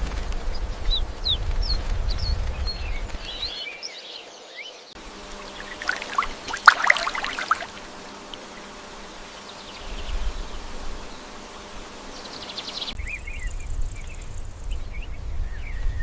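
Outdoor nature ambience of small birds chirping over a low wind rumble, with the background cutting abruptly a few times. A short, louder burst of rapid clicks and rustles comes about six to seven seconds in.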